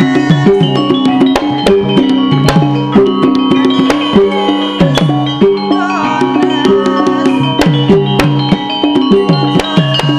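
Javanese gamelan music for a lengger dance: metal keyed instruments ringing held notes over busy drumming with many sharp strokes.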